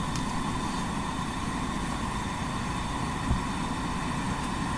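Steady low rumbling background noise with a faint even hum, and one soft thump about three seconds in.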